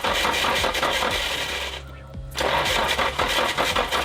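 Nissan SR20DET turbo four-cylinder being cranked over on its starter with the injectors unplugged, so it turns over without firing. It cranks, stops briefly about two seconds in, then cranks again, turning the cams to check oil flow from the cam oil squirters.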